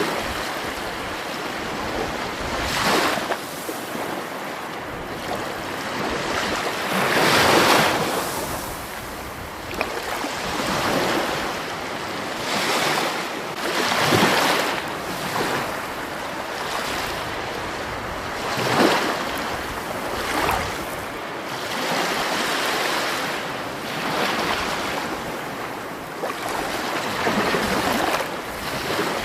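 Rushing water: a continuous wash that swells and eases every few seconds.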